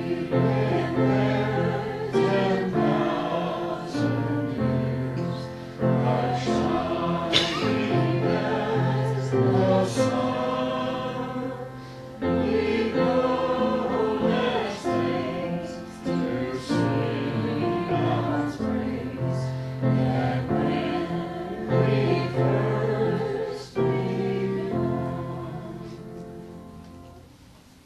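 Choir singing slow sacred music over sustained low accompaniment, in phrases a few seconds long; it dies away near the end.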